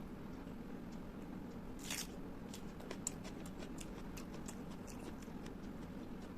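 Close-up eating sounds: small wet mouth clicks and smacks of chewing, with a brief louder noisy bite about two seconds in and a sharp click a second later, over a steady low hum.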